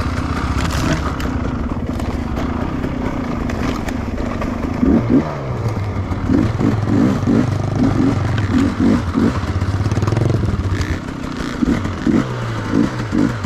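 Enduro motorcycle engine running steadily, then from about five seconds in revved in quick, repeated throttle blips, about two a second.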